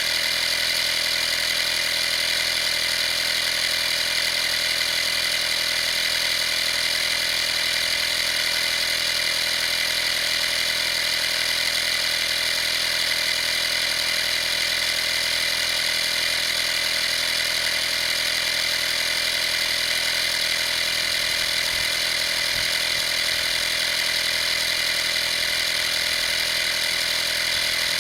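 Vaper 12V portable air compressor running steadily at an even pitch, with no change in speed or load.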